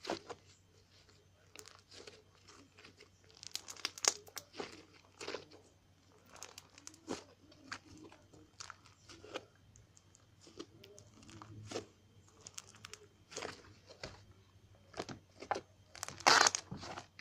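Fluffy slime being squished and stretched by hand, making irregular crackling and popping sounds, with a louder burst of crackles near the end.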